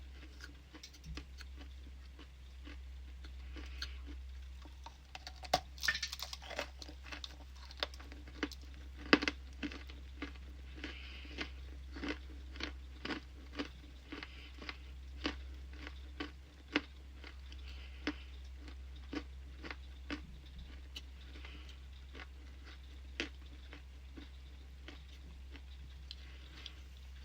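A person biting and crunching ice close to the microphone: a quick run of sharp cracks and crunches, densest and loudest about five to ten seconds in, over a steady low hum.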